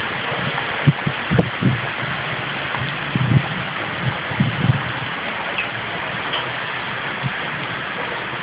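Heavy rain pouring steadily in a thunderstorm, with a few short low buffets, like wind on the microphone, in the first five seconds.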